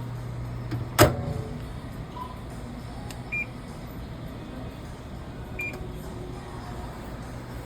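A sharp knock about a second in, then two short high electronic beeps a couple of seconds apart, over a low hum that stops at the knock.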